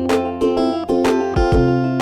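Background music: plucked guitar chords with a bass line and a steady beat.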